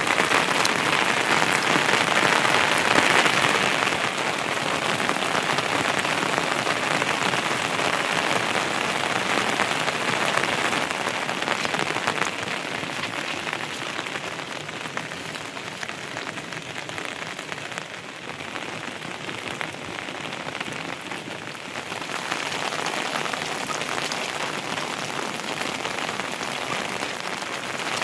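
Heavy monsoon rain falling on surfaces: a steady hiss full of individual drop impacts. It is heaviest at the start, eases through the middle and picks up again near the end.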